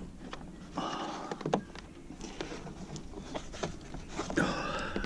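Plastic door trim being handled and pressed against a truck's interior door panel: scattered clicks, taps and rubbing, with one sharper knock about a second and a half in.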